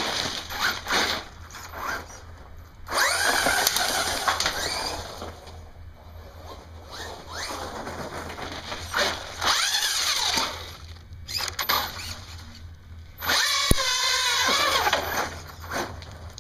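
Electric motor of a radio-controlled truck whining in bursts as the throttle is worked, its pitch rising and falling, three long runs and a few short blips.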